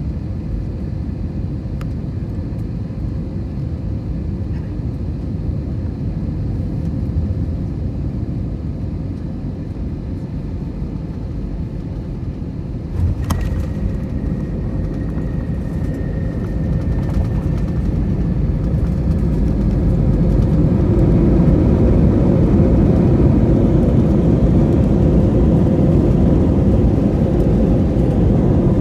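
Steady cabin rumble of a JetBlue Airbus A321 on its landing, with a single sharp thump about halfway through as the wheels touch down. A few seconds later the engine noise rises and stays louder, typical of reverse thrust on the rollout.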